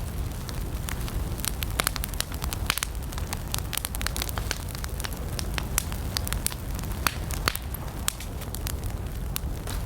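Wood campfire burning: frequent sharp, irregular crackles and pops over a steady low rumble of the flames.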